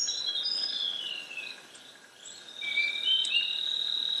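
Tropical forest ambience: several birds giving short high whistled notes, some falling in pitch, with a long steady high insect-like tone starting about halfway through and held to the end.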